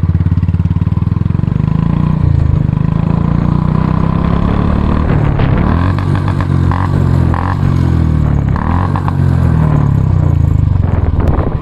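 Royal Enfield Classic 350's single-cylinder engine running with its steady, loud exhaust beat, given a few brief throttle blips about halfway through.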